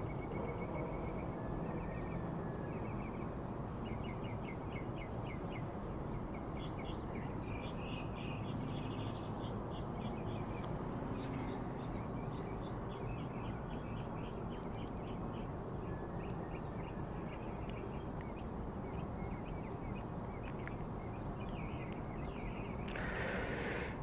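Songbirds chirping in quick runs of short repeated notes, the phrases changing every second or two, over steady low background noise. A brief rush of noise comes about a second before the end.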